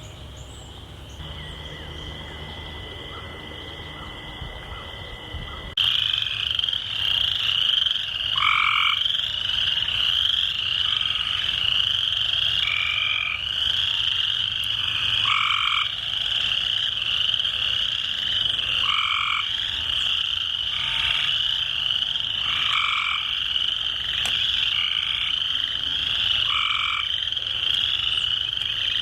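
A chorus of frogs and toads calling: a continuous high trill from many callers, with a lower, louder trilled call repeating every three to four seconds. The chorus jumps louder about six seconds in.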